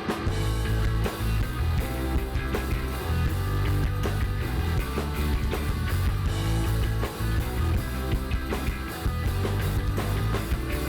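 Live rock band playing an instrumental intro, with electric guitar, bass and drums keeping a steady beat.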